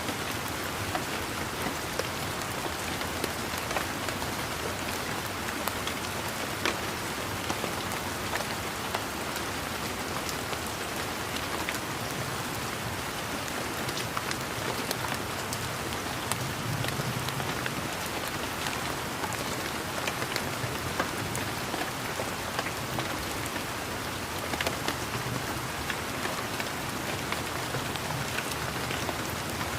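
Steady gentle rain falling on a garden, with many individual raindrops pattering close by as sharp little ticks over an even hiss. A faint low rumble swells briefly about halfway through.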